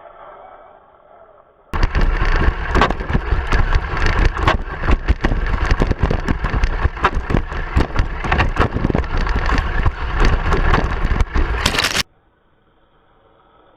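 Tamiya Lunchbox RC monster truck bashing over rough ground: a dense run of thumps, knocks and rattles over a noisy rush. It starts abruptly a couple of seconds in and cuts off just as abruptly near the end.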